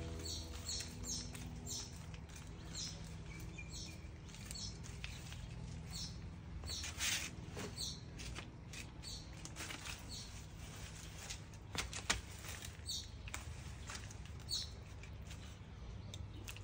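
A small bird chirping over and over, short high falling calls about once or twice a second, over a low steady hum. A few soft scrapes of a trowel in garden soil.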